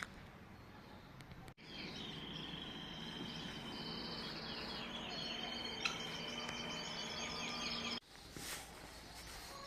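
Small birds singing and chirping with quick trills over outdoor ambience. The birdsong starts abruptly about a second and a half in and stops abruptly near the end.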